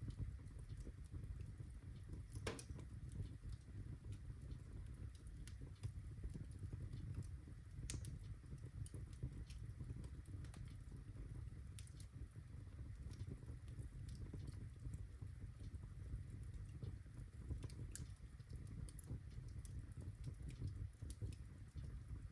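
Birchwood fire crackling in a fireplace: a low steady rumble of flame under many small scattered snaps, with a few sharper pops spread every several seconds.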